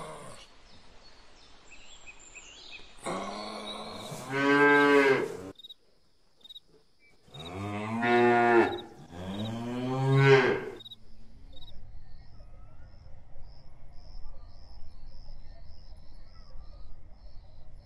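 Cow mooing three times in long, low calls, the last two close together, followed by faint, regular high chirps.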